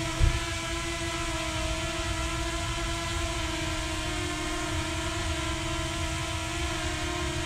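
Potensic Atom quadcopter's motors and propellers whirring at a steady, even pitch over a low rumble, with a brief thump about a quarter second in.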